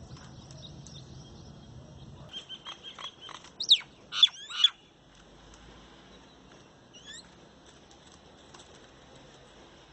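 Birds calling: a quick run of short high chirps, then three loud sweeping calls in a row a little past the middle, and one fainter call later.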